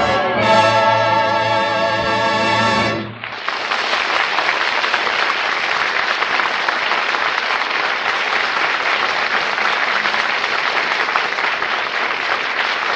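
Orchestra and singers holding the closing chord of a song, which cuts off about three seconds in, followed by steady audience applause.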